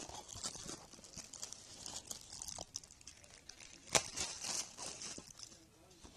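A DVD case's plastic wrapping crinkling and tearing as it is pulled off by hand, with irregular small clicks and a sharper click about four seconds in.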